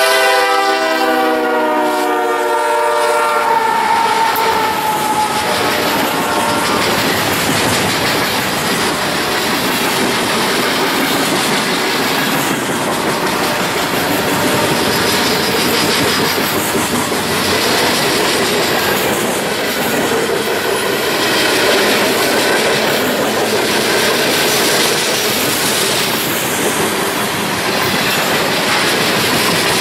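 BNSF diesel freight train led by GE ES44AC and ET44C4 locomotives passing close by. The locomotive horn sounds a multi-note chord that ends a few seconds in. Then the locomotives and a long string of boxcars and tank cars roll past, their wheels clattering in a steady repeating rhythm.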